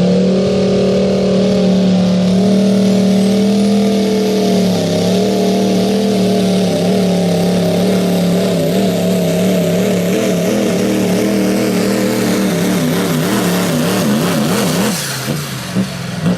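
Diesel pickup truck engine running at high revs under heavy load as it pulls a sled. The pitch holds steady, then wavers up and down for a few seconds, and the engine comes off the throttle about fifteen seconds in.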